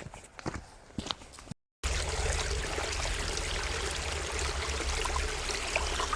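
A few footsteps, then after an abrupt cut a mountain stream rushing loudly and steadily over rocks close by, with a deep rumble underneath.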